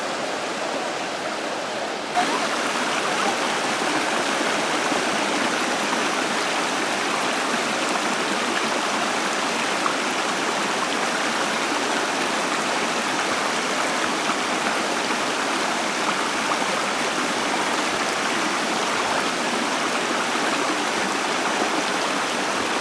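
Waterfall water rushing steadily, a dense, even noise that steps up a little about two seconds in.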